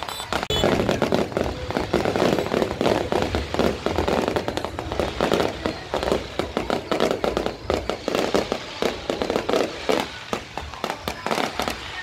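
Fireworks display: a dense, continuous barrage of aerial shells bursting and crackling, many bangs a second with no let-up.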